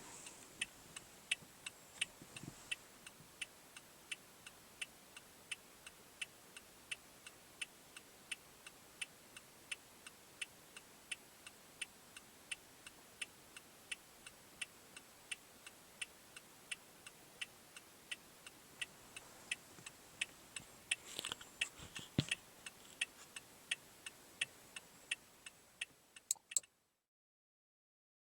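2016 Toyota Corolla LE's turn-signal blinker ticking in an even tick-tock, about three clicks a second. There is a brief knock a little past twenty seconds in, and the ticking stops about two seconds before the end.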